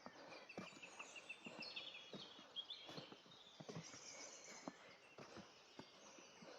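Faint footsteps on a woodland path, about two a second, with songbirds chirping; a quick run of repeated notes in the first second and a half.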